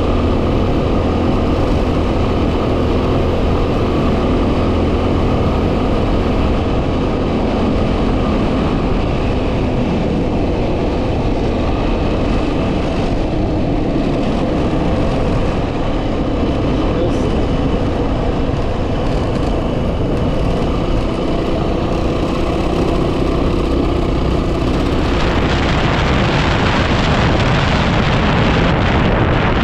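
Yamaha WR250R's single-cylinder four-stroke engine running steadily under way, with wind noise on the microphone. About 25 seconds in, a louder hiss of wind comes in over the engine.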